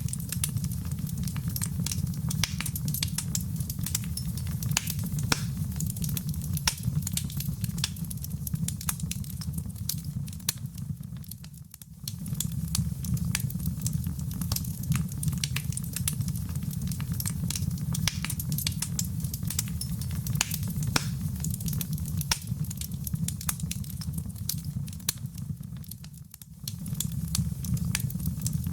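Wood fire burning in a fireplace: a steady low rumble of flames with many sharp, irregular crackles and pops. The sound dips briefly twice, about twelve seconds in and again near the end, then comes straight back.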